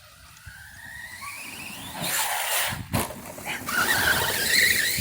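Arrma Outcast RC stunt truck driving hard. Its electric motor whine rises steadily in pitch as it speeds up, a single sharp knock comes about three seconds in as it lands or hits something, and then the whine wavers over a hiss of tyre noise as it carries on.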